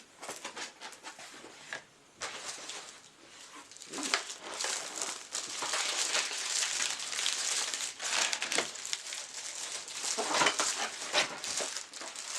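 Packaging crinkling and rustling as it is handled, getting louder about four seconds in.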